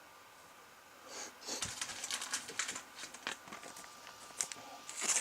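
Trading cards being handled and sorted: a quick run of small clicks, slides and rustles starting about a second in.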